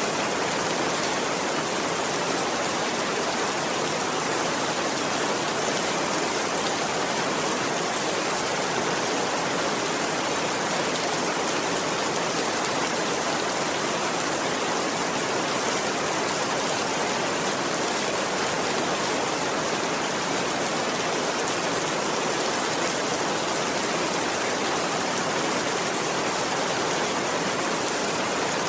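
Steady rainfall, an even hiss with no thunder and no change in strength.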